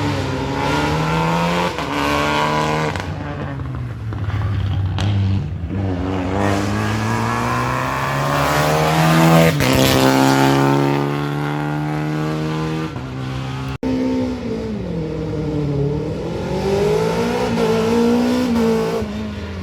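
Rally car engine at full throttle on a special stage, revving up and dropping in pitch repeatedly as it shifts gear, getting loudest as it passes close by about halfway through. The sound cuts off abruptly about two-thirds of the way in and picks up again with another stretch of hard-revving engine.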